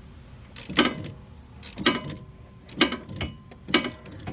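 Hand ratchet loosening the nut on a sway bar (stabilizer) link, clicking in short bursts about once a second as the handle is swung back and forth. The link's ball stud is held with channel locks so that it no longer spins with the nut.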